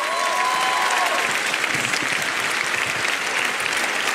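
Large audience applauding steadily, with a held high tone above the clapping in the first second or so.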